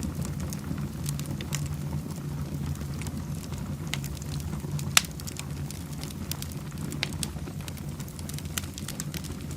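Wood fire burning in a fireplace: a steady low rumble of flames with scattered crackles and pops, one sharp pop about halfway through.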